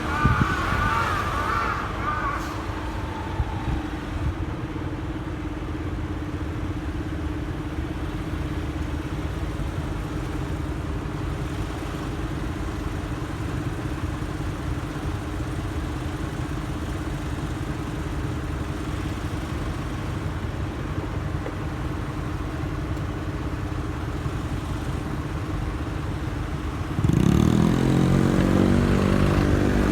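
Motorcycle engine idling steadily with a low hum of road noise, then, near the end, revving up louder with a rising pitch as it accelerates.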